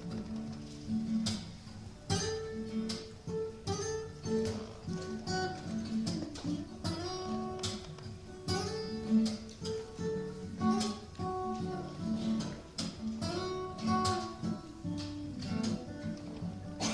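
Acoustic guitar picking a melody over a strummed accompaniment in an instrumental break of a country-folk song, some notes sliding up in pitch, with no singing.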